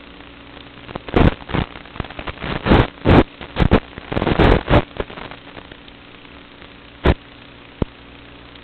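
FPV quadcopter's brushless motors spinning Kingkong 5040 three-blade propellers through throttle punchouts: several loud short surges about one to five seconds in and one more near seven seconds, over a steady low hum.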